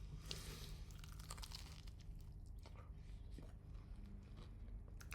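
Crunching and chewing of crispy fried chicken close to the microphone, a dense run of small crackles over the first two seconds, then scattered softer crunches.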